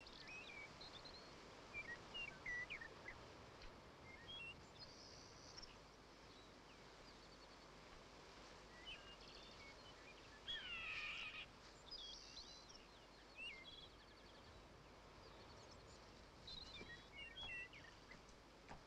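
Quiet outdoor ambience with wild birds chirping and whistling here and there. About ten seconds in comes a louder run of falling calls.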